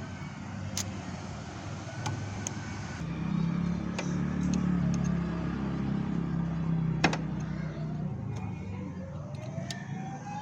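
Honda Unicorn 160 motorcycle engine running; it picks up a little about three seconds in, then settles back. A few sharp clicks come through, the loudest about seven seconds in, and a rising whine near the end.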